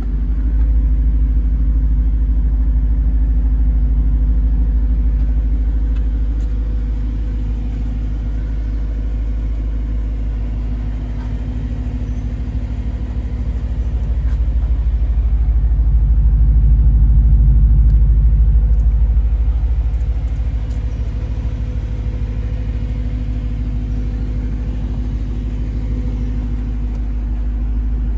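BMW E92 M3's 4.0-litre S65 V8 idling steadily after a cold start, a deep even rumble that swells louder about two-thirds of the way through.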